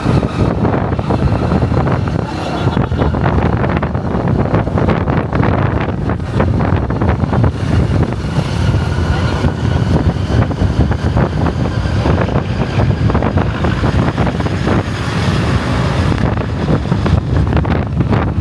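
Wind buffeting the microphone on a moving motorcycle, with the motorcycle's engine running underneath, loud and steady throughout.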